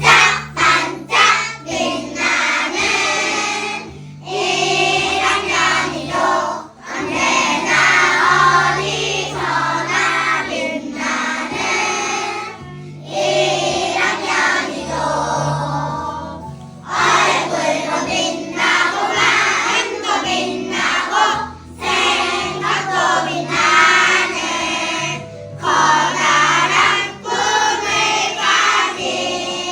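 Children's choir singing a cheerful song in phrases over an instrumental backing track with a steady bass line.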